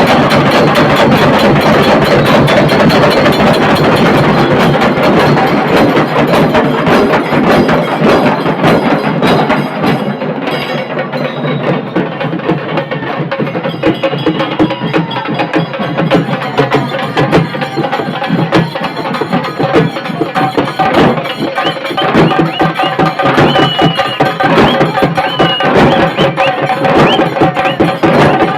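Dhol tasha band playing: rapid, dense tasha drum strokes over dhol beats, loud throughout, easing slightly for a couple of seconds early on before building again.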